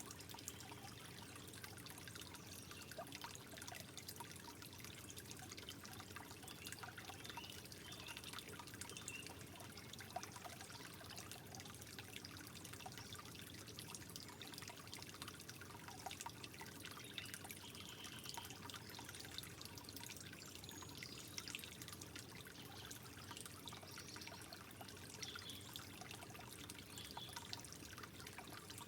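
Water trickling gently and steadily, with small drips and splashes flecking the flow.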